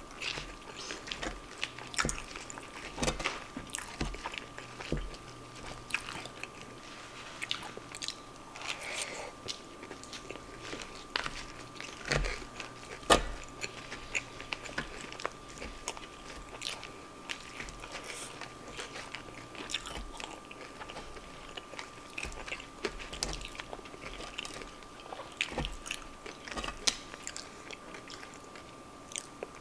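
Close-miked eating: chewing and crunching of animal-style fries topped with Xtra Hot Cheetos, with sharp clicks and taps as a wooden fork works in a paper tray. A faint steady high tone runs underneath.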